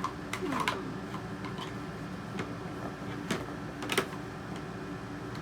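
Hard plastic toy parts of a Play-Doh popcorn machine clicking and knocking together as they are fitted into place: a handful of separate sharp clicks, the loudest about four seconds in.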